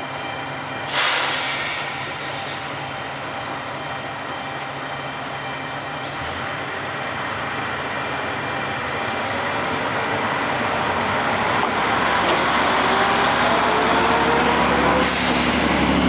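Watarase Keikoku Railway diesel railcar at the station: a sharp air-brake hiss about a second in, then the engine growing louder with a rising whine, and a second air hiss near the end.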